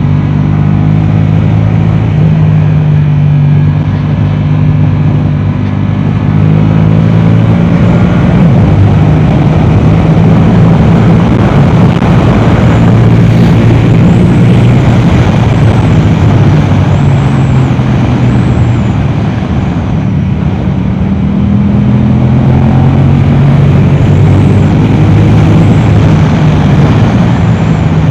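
Yamaha R7's parallel-twin engine through an Akrapovic exhaust, run hard on a race track. It climbs in pitch under acceleration, holds high, drops briefly in level about twenty seconds in as the throttle is eased, then climbs again.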